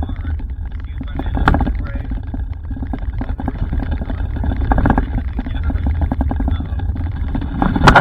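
Steady low rumble of a vehicle driving, heard from inside, with a few brief louder rushes about a second and a half in and again near the end.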